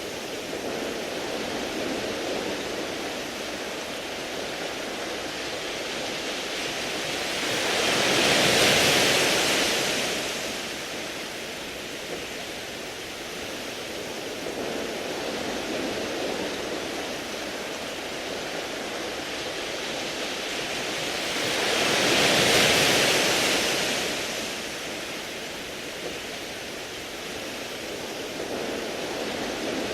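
Sea waves washing over a beach of smooth round pebbles, a steady hiss that swells twice into louder surges, about a third of the way in and again about three-quarters through.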